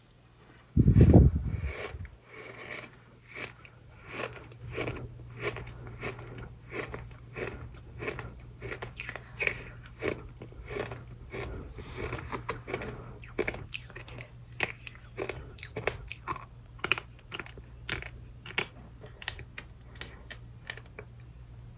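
Close-miked crunching and chewing of dry sand, a dense run of small crackling crunches. A loud low thump about a second in, over a steady low hum.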